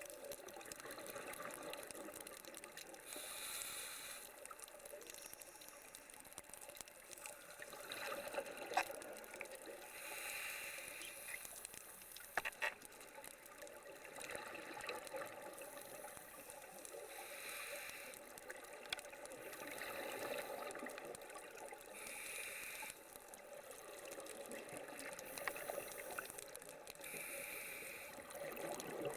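Underwater bubbling from a scuba diver's regulator: a steady watery hiss with louder bursts of exhaled bubbles every five to seven seconds, and a few sharp clicks.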